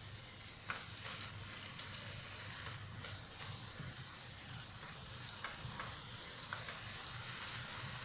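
Beef and leafy greens stir-frying in a pan: a steady, faint sizzle with scattered light clicks of the stirring utensil against the pan.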